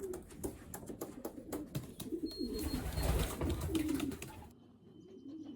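Racing pigeons cooing, a low warbling with scattered sharp clicks and taps; the sound drops away abruptly about four and a half seconds in.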